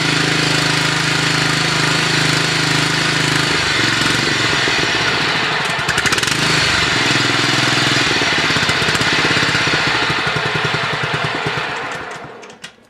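Snapper self-propelled mower's 6.75 hp Briggs & Stratton overhead-valve engine running steadily just after a cold start. Its note shifts about four seconds in, and the sound falls away near the end.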